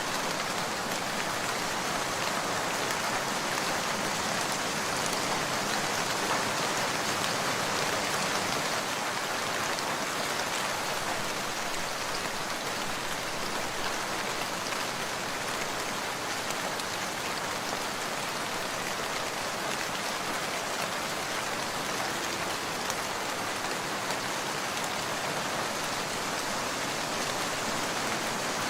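Steady rain falling and pattering on surfaces, an even dense hiss with fine drop speckles that holds at one level throughout.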